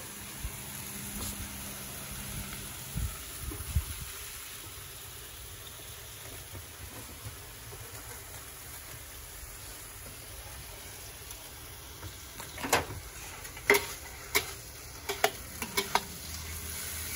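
Chicken pieces frying in vegetable oil in a hot carbon steel wok, a steady sizzling hiss. Several sharp clicks and knocks come in the last few seconds.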